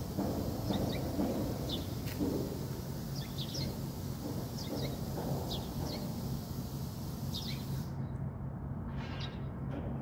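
Small birds chirping: repeated short, high chirps, often in quick pairs, over a steady low background hum.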